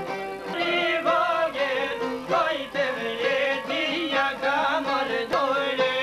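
Albanian folk music: a wavering, ornamented melody over a steady held accompaniment note, in the style of a folk violin line.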